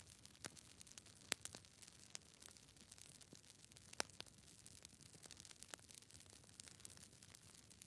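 Near silence: faint hiss with short, irregular clicks and crackles scattered through it, one or two a little louder.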